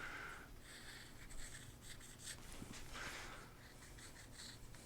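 Faint, scratchy rubbing strokes of a paint applicator being worked over scuffed mobility-scooter parts, touching up the scrapes.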